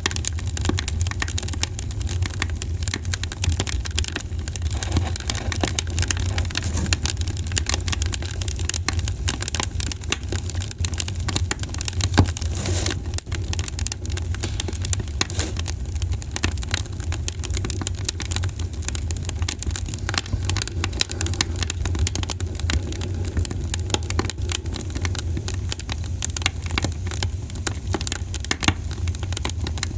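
Campfire crackling: a dense stream of small pops and snaps over a steady low rumble, with one louder pop about twelve seconds in.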